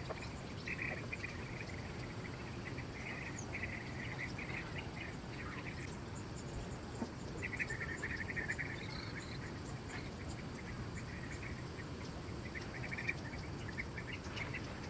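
Insects chirring in repeated trilling bursts over a steady low background hum of the forest.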